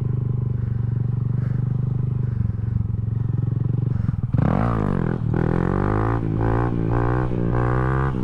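Honda Grom's single-cylinder engine running steadily, then about four seconds in a brief clatter and the engine's pitch rising and falling repeatedly as it revs.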